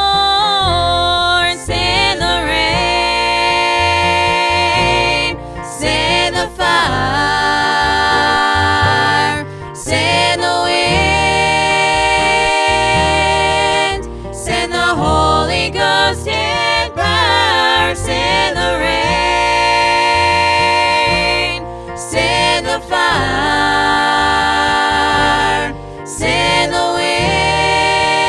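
Gospel song music: melodic lines that bend and waver over sustained instrumental accompaniment, with brief dips every few seconds.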